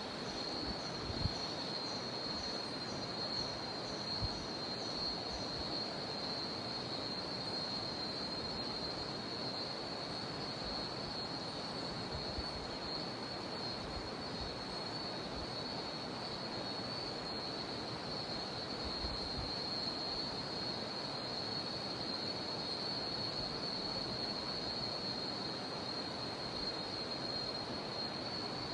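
Cicadas droning steadily in one high-pitched band over the even rushing of a jungle river.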